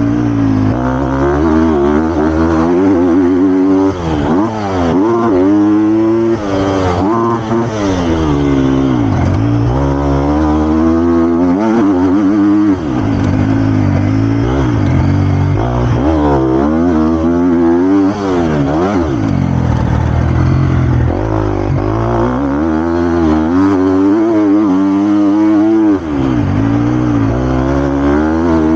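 Triumph TF250-X four-stroke single-cylinder motocross engine being ridden hard, its pitch repeatedly rising under throttle and falling off, with a few brief dips in level.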